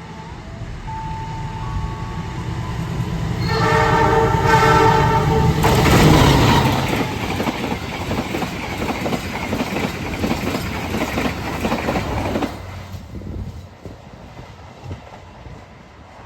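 Passenger trains passing each other. A train horn sounds for about two seconds, starting a few seconds in. Then the other train rushes past close by with loud rumbling and wheel clatter for about seven seconds and cuts off abruptly as it clears, leaving a lower running rumble.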